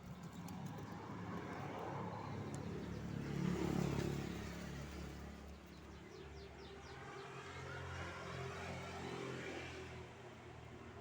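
A motor vehicle engine passing by, swelling to its loudest about four seconds in and fading, then rising again later. A caged canary gives a few faint quick descending chirps about two-thirds of the way through.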